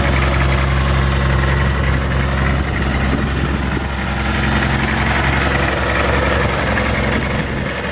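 BMW M51D25 2.5-litre inline-six turbodiesel idling steadily at an even, unchanging speed.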